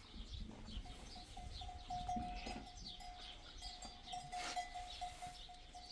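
Faint livestock sounds from a herd of goats and sheep, with small birds chirping. A faint steady tone is held from about a second in to the end.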